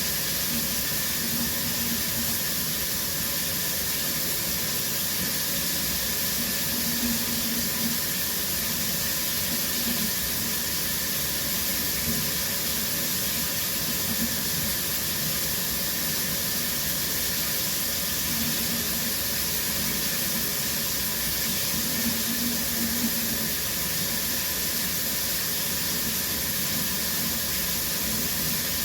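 Shower running steadily, water spraying from the head and splashing in the stall as an even hiss.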